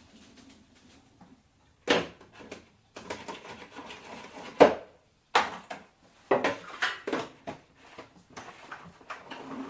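Kitchen clatter from salad making: a string of irregular knocks and clatters as dishes, utensils and wooden things are picked up and set down, the loudest knock about halfway through.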